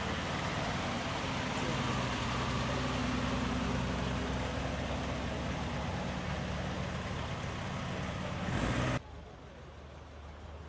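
Engines of classic Mercedes convertibles running as the cars roll slowly past close by, with a steady low engine note. About nine seconds in it cuts off abruptly to a quieter outdoor background.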